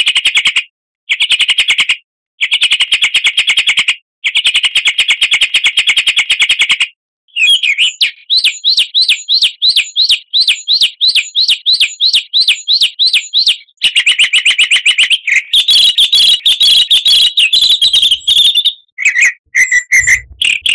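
Songbird song from a bird-song lure recording made to set caged songbirds singing. First come rapid trilled phrases broken by short pauses, then a long series of quick rising whistled notes about four a second, then a denser trill and a few short chirps near the end.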